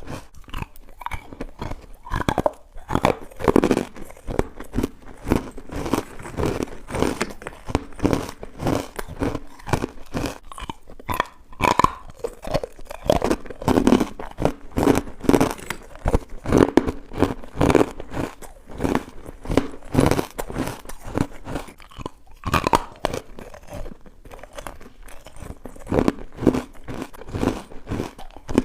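Close-up chewing and crunching of chalky, powdery carbonated ice bites: a rapid, continuous run of crisp crackling crunches as the ice is bitten and ground between the teeth.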